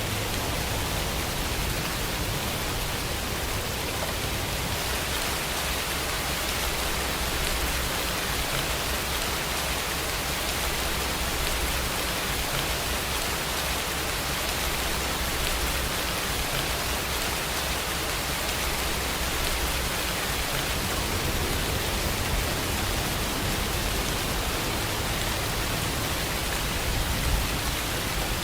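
Steady rain falling, an even hiss without a break, with a low rumble underneath.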